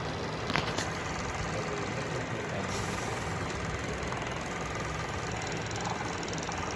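Air-conditioner blower motor running with a steady mechanical noise, the abnormal blower noise being shown; a couple of short clicks about half a second in.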